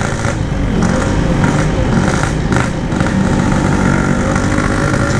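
Yamaha RX-King's 135cc single-cylinder two-stroke engine running steadily while the bike is ridden. The bike is down on power and can't pull past slow cars, with its reed valve petals broken.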